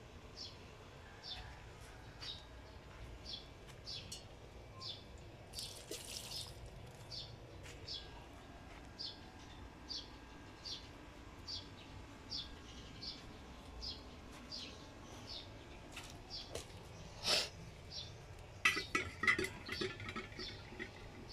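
A small bird chirping one short, high note over and over, about once every three-quarters of a second. A brief rustle comes about six seconds in, and louder rustling and clicks come near the end.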